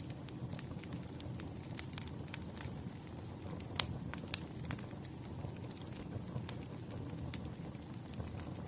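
Wood fire burning: a steady low rumble with irregular sharp crackles and pops of the burning logs, the loudest pop a little before halfway.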